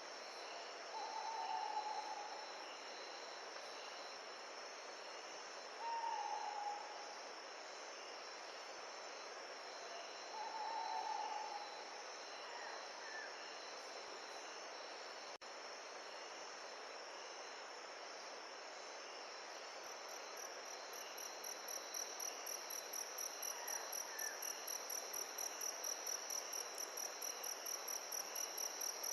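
Steady chorus of insects over a soft hiss of wind, with three short low bird calls in the first dozen seconds. About two-thirds of the way in, a cricket-like trill pulsing about four times a second comes in and grows louder.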